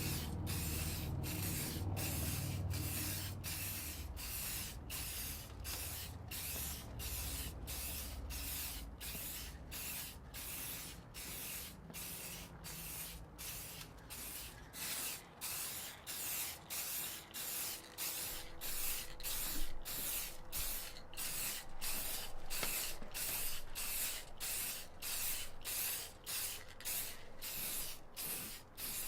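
Hand trigger spray bottle being pumped over and over, each pull a short hiss, about one and a half sprays a second. A low rumble runs under the first several seconds.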